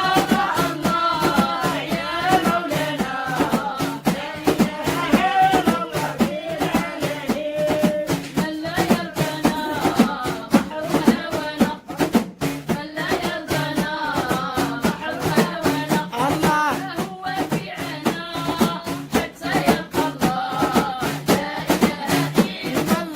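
Devotional dhikr singing: a melodic sung voice over percussion keeping a steady, busy beat.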